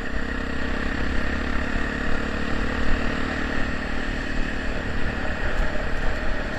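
Honda Tornado 250 single-cylinder motorcycle engine running at a steady idle through a loud Pro Tork aftermarket exhaust, whose silencer has just been repacked with new wool.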